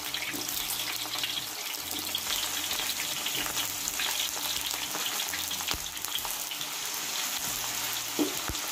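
Raw potato cubes deep-frying in hot oil in a wok, a steady dense sizzle and crackle of vigorous bubbling. Near the end a spatula goes in among them, with a few sharp clicks.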